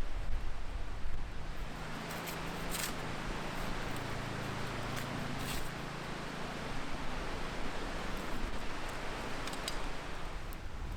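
Cooking over a wood campfire: a steady hiss with a few sharp crackles, and a faint low hum for the first half.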